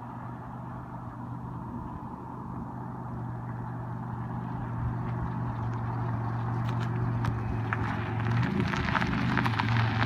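Car engine idling steadily and growing gradually louder, with a pitch change near the end. A patter of small crackles and ticks builds up from about seven seconds in.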